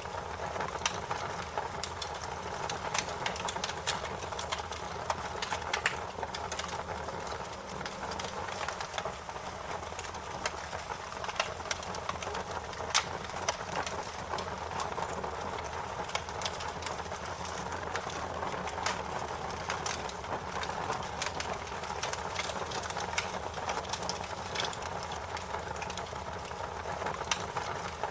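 Wood fire crackling steadily, with a constant hiss and frequent irregular sharp pops and snaps.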